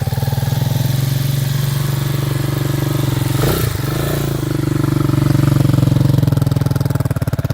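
250cc Magician enduro dirt bike engine running steadily, with a short click and a brief dip and recovery in engine speed about halfway through.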